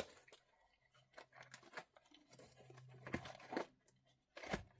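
Quiet rustling and crinkling of plastic packaging being handled, in short scattered bursts with a few louder rustles in the second half.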